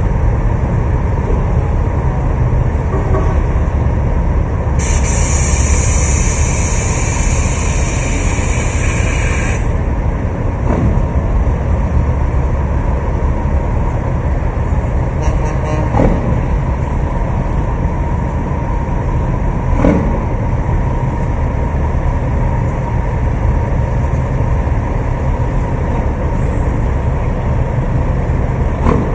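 Heavy trucks' engines running with a steady low rumble, with a loud hiss of air lasting about five seconds near the start and a few short knocks later on.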